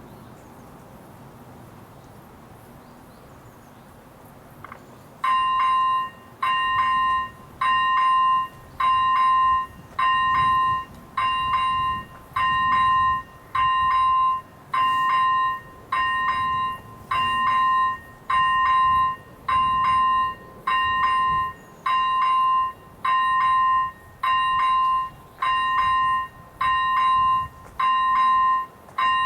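Electronic level-crossing bell (AŽD ZV01) starting about five seconds in: one ringing electronic tone, repeated steadily about once a second with short gaps. It is the crossing's warning that a train is approaching.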